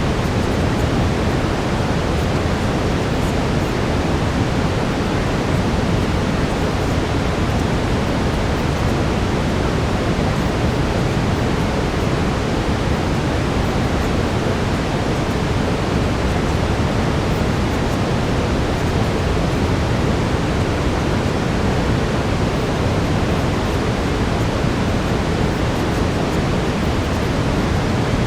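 Steady brown noise: a deep, even hiss, heaviest in the low end, with no change throughout.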